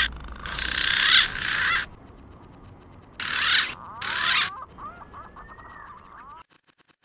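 Green pigeon (punai) calls played as a hunting lure: two loud, hissy stretches of warbling calls, then softer gliding whistles. The sound cuts off abruptly a little over six seconds in.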